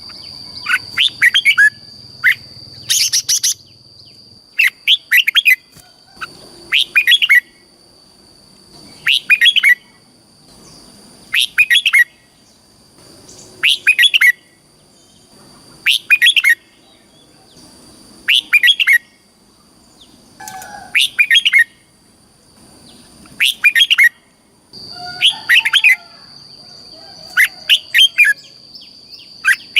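Red-whiskered bulbul singing short, warbling phrases, one about every two seconds, over a steady high tone.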